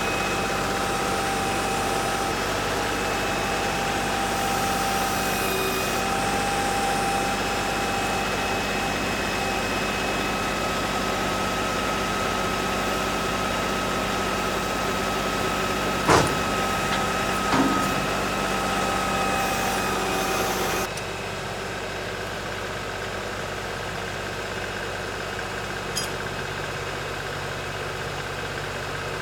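LS XR3135 compact tractor's diesel engine running steadily, with a steady whine over it. A sharp knock comes about halfway through, then a smaller one, and about two-thirds through the engine sound drops abruptly to a quieter, lower level.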